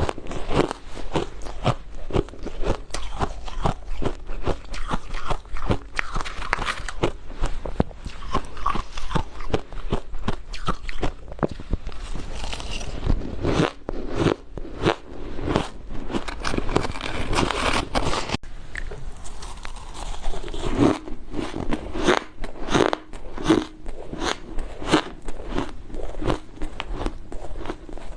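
Soft, powdery ice being bitten and chewed: rapid, continuous crunching.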